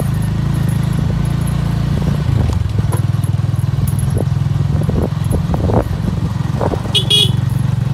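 Honda motorcycle engine running steadily while riding, heard from on the bike. A brief high-pitched sound comes about seven seconds in.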